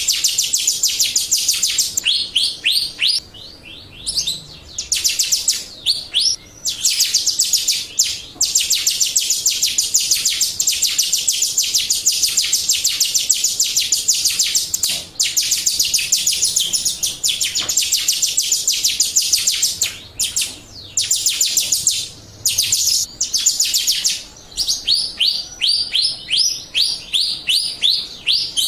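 Jalak Rio starling song used as a lure (pancingan) call: long runs of fast, high chirps repeated many times a second. The runs break in short pauses, and near the start and end they slow into separate rising notes.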